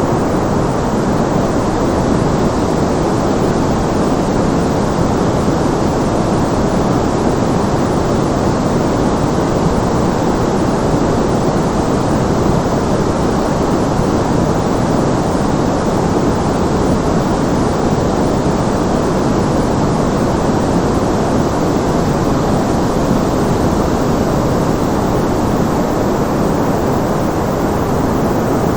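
Steady white noise used as a calming background: an even, unchanging rushing hiss, fullest in the low and middle range with little top end.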